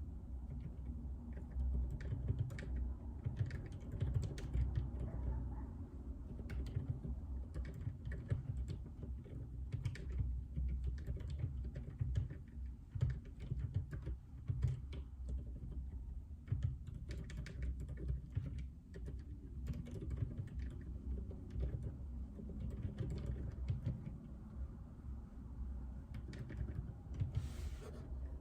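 Steady typing on a JJK84 mechanical keyboard with Outemu Silent Peach linear switches: a continuous irregular stream of dampened, muted keystrokes with a low-pitched thud and only a faint click.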